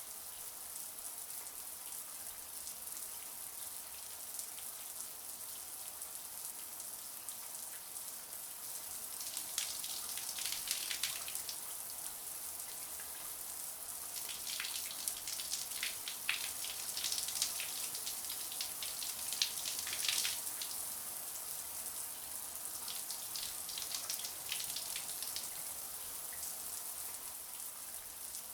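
Shower water running steadily as a high hiss, with heavier spattering stretches about a third of the way in and again around the middle.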